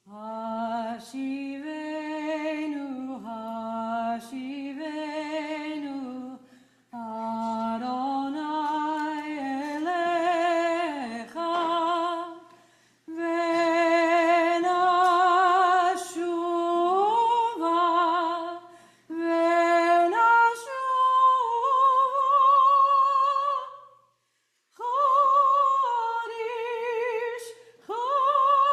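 A woman's voice singing unaccompanied, a slow melody in phrases of a few seconds with vibrato and short pauses between them. The phrases move higher in pitch in the second half.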